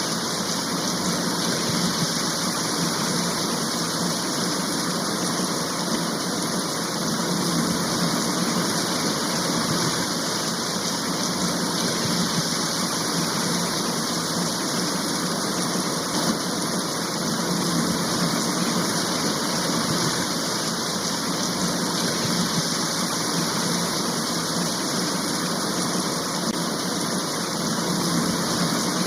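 Rain shower falling steadily: an even, unbroken hiss of heavy rain.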